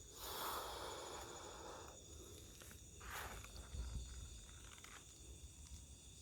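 Crickets and other night insects chirring in a steady, high drone. Over it, rustling from someone walking through dry undergrowth: a longer rustle at the start and a shorter one about three seconds in.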